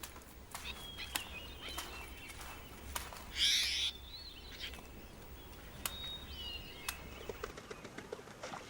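Wild birds calling: short high chirps and whistles among scattered sharp clicks, with one brief harsh, rasping burst about three and a half seconds in.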